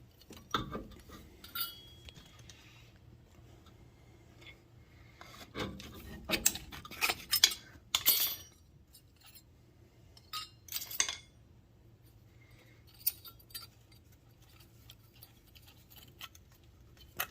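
Metal hand tools and brake hardware clinking and clattering in scattered knocks, busiest around the middle, over a faint steady low hum.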